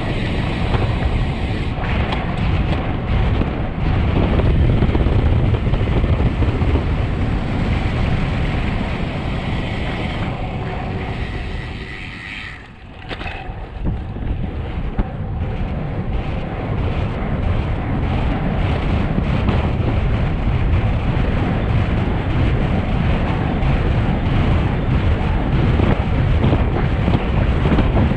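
Wind rushing over the microphone of a road bike descending at speed, loud and steady; it dips briefly about halfway through, then builds again.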